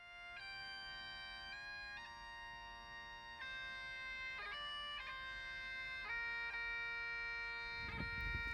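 Bagpipe music: a slow tune of held notes that change pitch every second or so over a steady drone. Low wind rumble comes in near the end.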